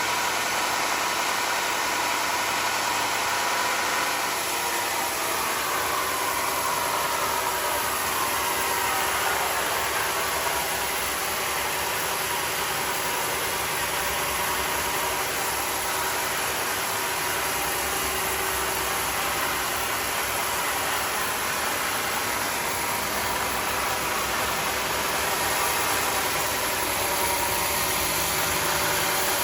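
Engine-driven sawmill running with a steady mechanical drone and several steady tones. Its pitch slides and shifts briefly between about four and ten seconds in.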